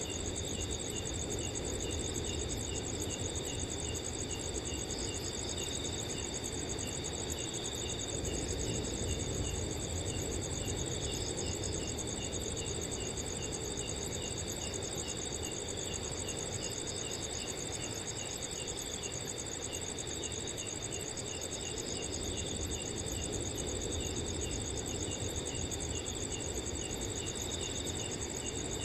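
Several crickets chirping together: a steady high trill, another cricket chirping about two to three times a second, and short bursts of trilling every few seconds, over a low rush of wind.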